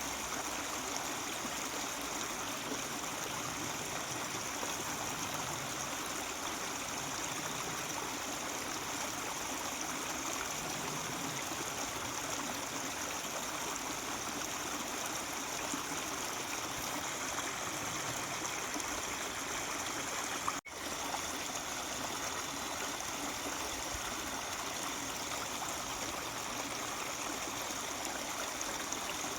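Mountain stream running steadily, an even rush of water, with a momentary break in the sound about two-thirds of the way through.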